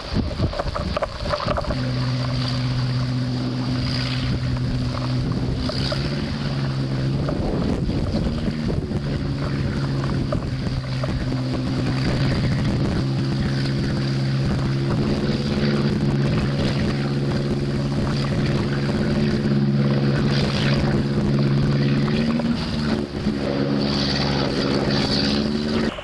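Boat engine running steadily, its pitch shifting up or down a few times, over a steady rush of wind and water noise.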